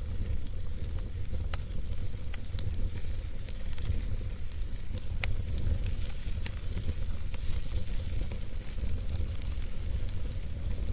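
Wood fire burning in a fireplace: a steady low rumble and hiss with sharp crackles and pops scattered every second or so.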